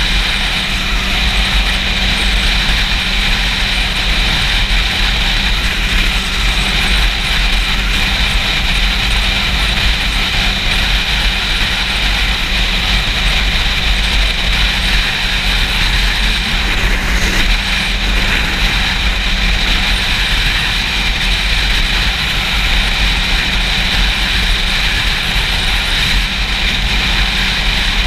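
Wind rushing over a GoPro microphone on a moving Yamaha YZF-R6, with the bike's inline-four engine running underneath at a steady speed. The sound is loud and even throughout.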